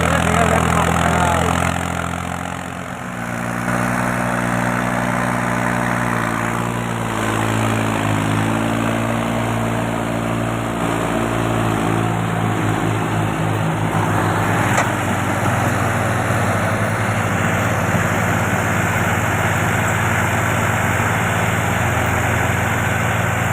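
Tractor engine running steadily, with a brief drop in level and a shift in pitch in the first few seconds.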